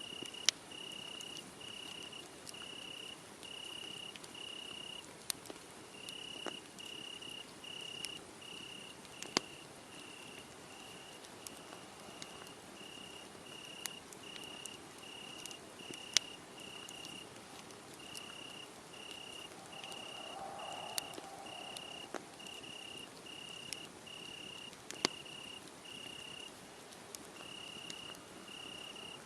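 A cricket chirping in a steady, even rhythm, a little over one high chirp a second, over the soft hiss of a wood fire. Sharp crackles and pops from the burning wood break in every few seconds and are the loudest sounds.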